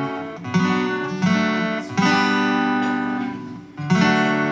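Acoustic guitar strumming chords in a slow song, four strums each left to ring and fade.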